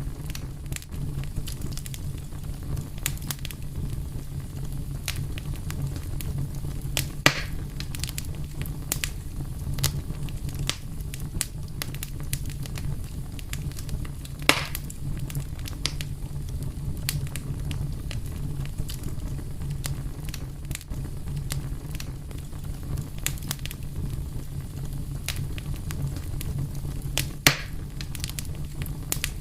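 Wood fire crackling: a steady low rumble and hiss of burning, with frequent sharp pops and snaps, three of them louder than the rest.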